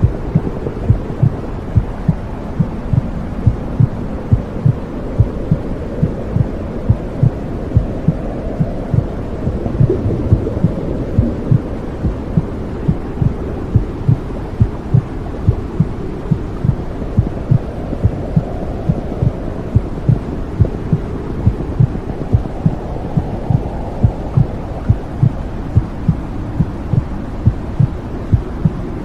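Womb sound for soothing babies: a steady, regular heartbeat pulsing low over a continuous low whooshing noise.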